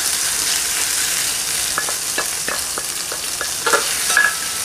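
Onion slices and ginger-garlic paste sizzling in hot oil in a frying pan, with a steady hiss, while a wooden spatula stirs and scrapes against the pan several times.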